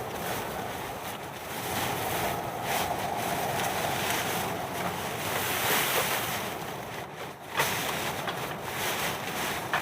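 A steady, rushing outdoor noise of wind and water, with a few sharp knocks.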